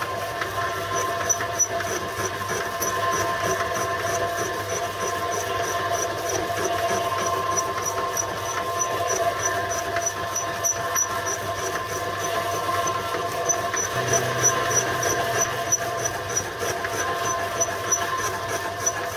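Machine tool running steadily through a fairly aggressive cut of about 40 to 50 thousandths of an inch: a steady mechanical hum with a few constant tones and a light, regular tick about three times a second.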